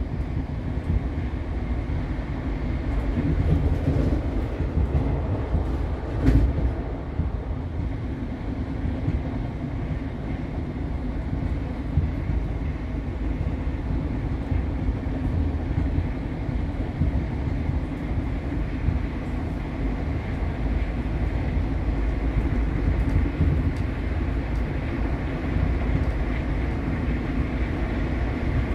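Passenger train running along the track, heard from inside the carriage: a steady low rumble of wheels on rails, with one sharp knock about six seconds in.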